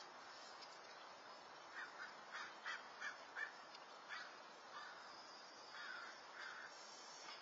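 A bird calling outdoors: a quick run of about six short calls about two seconds in, then two more about six seconds in, over a faint steady hiss.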